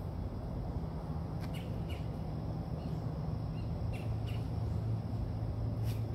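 Birds chirping outdoors in short, scattered calls, about half a dozen, over a steady low hum.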